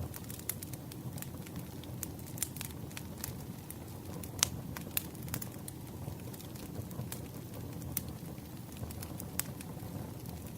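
Campfire crackling and popping: wood burning with a steady low rumble under irregular sharp pops, two louder snaps near the middle.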